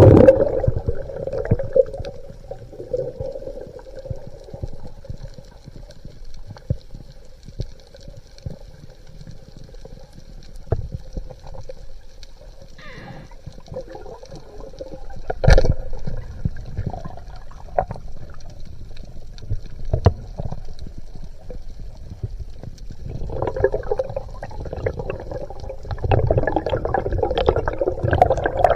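Underwater water noise with gurgling and scattered clicks, a single sharp knock about halfway through, and louder, busier water noise near the end.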